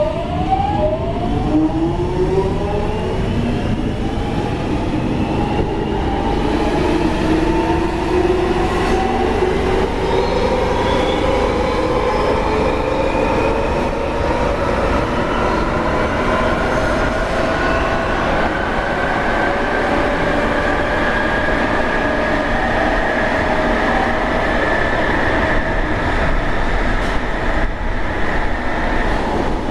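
London Underground 1996 Stock train accelerating: the traction motors' whine starts as soon as it sets off and rises steadily in pitch in several tones over about twenty seconds, then levels off. Underneath runs a steady rumble of wheels on the track.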